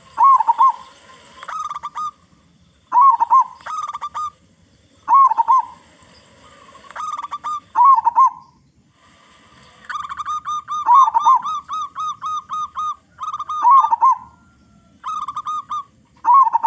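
Zebra dove (perkutut) singing: repeated phrases of quick staccato coos, each run of short notes joined by a louder wavering coo, about every two to three seconds. A longer run of coos comes near the middle.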